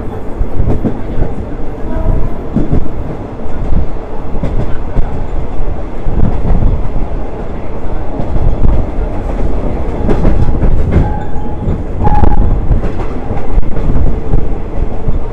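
Third-class passenger train running, heard from aboard: a loud, steady rumble of wheels on the rails with irregular knocks from the track.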